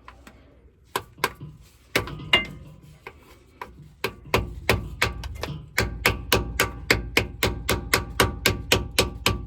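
Repeated hammer blows on metal with a ringing note, a few spaced strikes at first and then a steady run of about three a second from about four seconds in. This is a tool being driven against the rear differential cover of a Ford F-150 to break its stubborn gasket seal.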